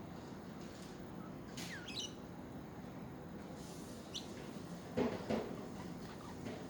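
Pet budgerigars chirping: a falling, warbled chirp about two seconds in and a short high chirp near four seconds, over a steady hiss. About five seconds in come two louder, lower knocks or chirrups close together.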